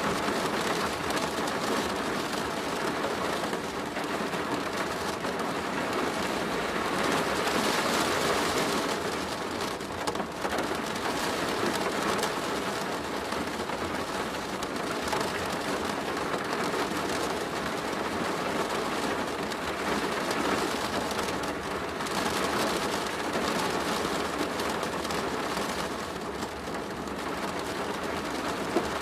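Steady rain drumming on a plastic roof: a dense patter that swells a little and eases again without stopping.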